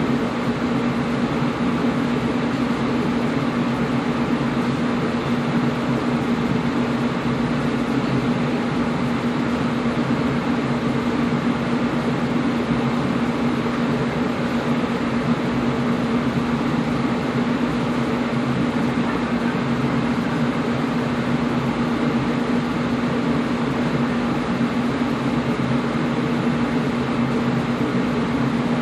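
Air conditioner running steadily: an even rush of airflow with a constant low hum.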